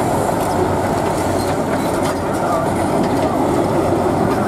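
Heavy competition truck's diesel engine running steadily, a continuous dense rumble with no clear changes in pitch.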